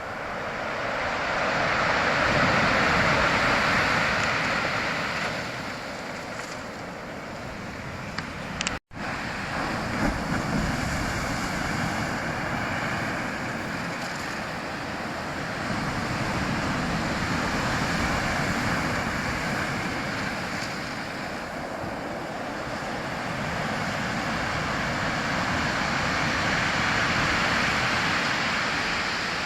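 Sea waves washing ashore, the surf noise swelling and falling slowly, with a split-second break about nine seconds in.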